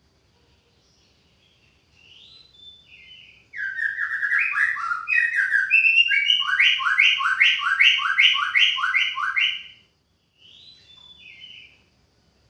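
White-rumped shama (murai batu) singing: a short soft phrase, then a loud run of quick repeated notes lasting about six seconds, then another soft phrase near the end.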